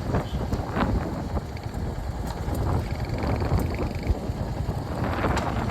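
Royal Enfield Hunter 350's single-cylinder engine running under way, with wind buffeting the microphone.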